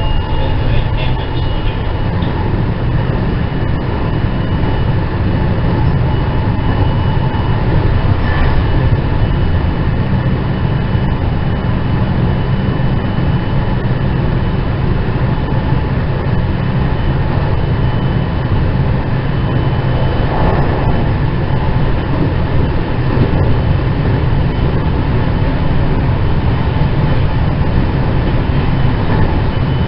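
Running noise inside a JR West 207 series 2000-subseries electric commuter train with IGBT inverter control: a steady low rumble of wheels on rail, with faint steady whines held at constant pitch.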